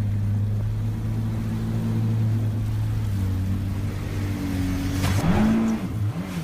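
A boat's motor running steadily with a low hum, with a brief swoop in pitch about five seconds in.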